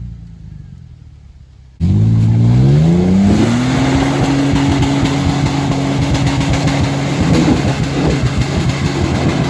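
An engine note dies away, then a truck engine comes in loud, revs up over about two seconds and is held at high revs, with a gritty rattle over it.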